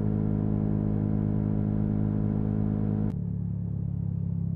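Yamaha MT-125's 125 cc single-cylinder four-stroke engine running at a steady speed while riding. About three seconds in, the sound changes abruptly to a quieter, lower note.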